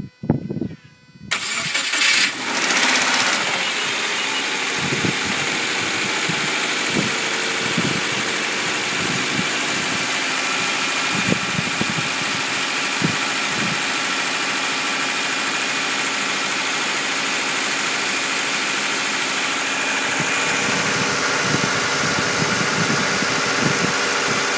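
Subaru XV's boxer four-cylinder engine starting: it cranks and catches about a second in, runs unevenly for a couple of seconds, then settles into a steady idle.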